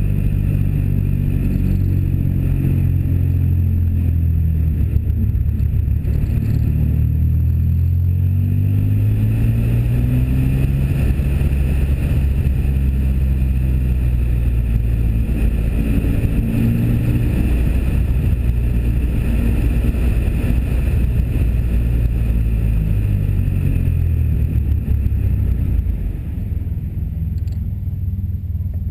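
Pontiac Firebird's 3.8-litre V6 and exhaust heard on board while driving, with wind noise rushing over the muffled camera microphone. The engine note climbs under acceleration about a third of the way in, holds steady, and eases off and quietens near the end.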